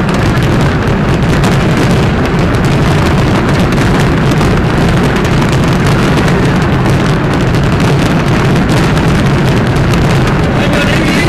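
A dense barrage of fireworks shells bursting, the bangs coming so close together that they merge into one continuous loud din with no let-up.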